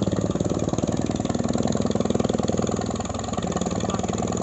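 An engine idling steadily with fast, even firing pulses.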